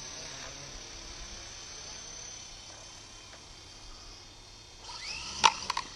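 Small electric RC helicopters flying, their motors and rotors giving a high, steady, buzzing whine that fades away. Near the end a rising whine is followed by a few sharp, loud clacks.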